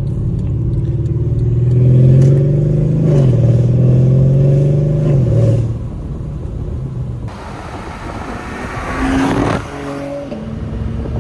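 Mercedes-Benz CLS550 twin-turbo V8 with downpipes, heard from inside the car, pulling under moderate throttle: the note climbs, drops with an upshift about three seconds in, and eases off after about five seconds. Later a rushing sound swells for about two seconds and cuts off suddenly.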